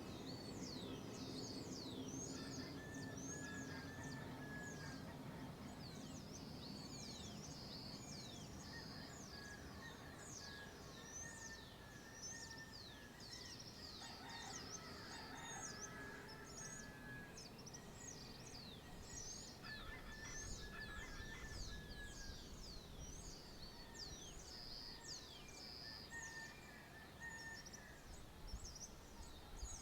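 Faint dawn chorus of birds: many short, high chirps sweeping downward, overlapping one another throughout, with a low steady hum in the first few seconds.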